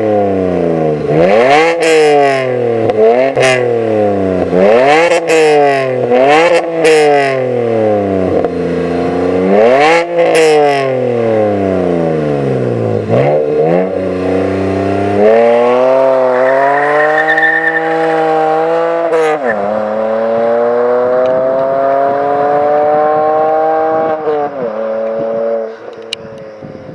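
BMW E92 325i's 3.0-litre N53 inline-six, with secondary catalytic converter and resonator deleted and a custom muffler, revved in a series of quick throttle blips, each a sharp rise and fall in pitch. About halfway through it pulls in long steady climbs through several gear changes, the pitch dropping suddenly at each shift, then falls off near the end.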